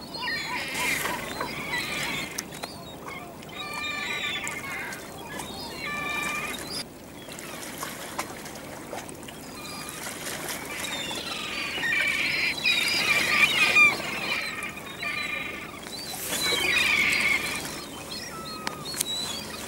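Waterbirds calling again and again in short, repeated calls, over a light wash of moving water.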